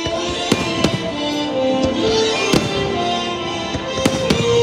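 Aerial firework shells bursting, about five sharp bangs with two close together near the end, over loud show music.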